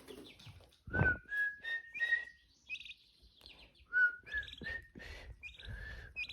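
A person whistling a short phrase of four clear notes, each a little higher than the last, twice over, with another note near the end. Short, high bird chirps come between the two phrases.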